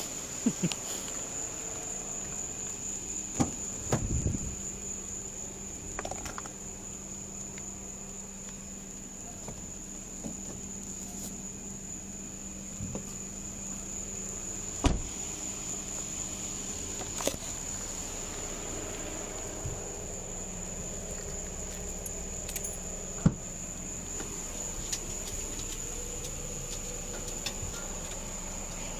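Steady high-pitched insect chirring, with a few sharp knocks and rubbing sounds scattered through it.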